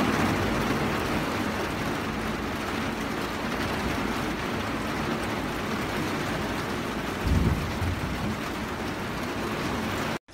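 Heavy rain falling steadily, a dense even hiss, with a short low rumble of thunder about seven seconds in.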